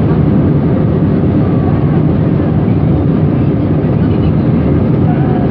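Airbus A321 cabin noise: a loud, steady rumble of engines and airflow heard from inside the passenger cabin during the landing.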